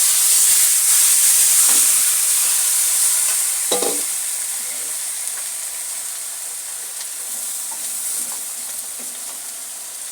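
Food sizzling in hot oil in a cooking pot, starting loud and easing off gradually. About four seconds in there is a single clank of a utensil against the pot.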